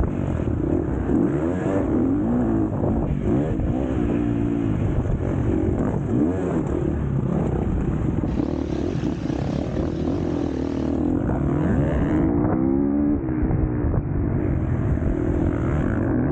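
Four-stroke KTM 250 SX-F motocross bike engine revving, its pitch rising and falling again and again as the throttle is opened and shut, with a steady rough rumble underneath.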